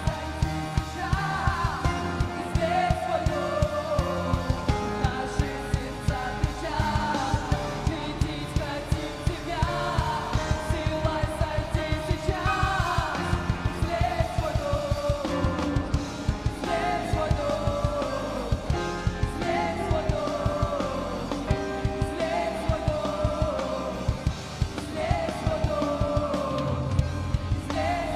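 Worship song with a rock band: singing with repeated falling phrases over a steady drum beat.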